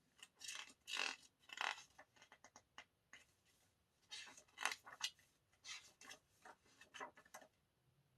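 Paper and packaging being handled: faint, irregular rustling and crinkling in short bursts.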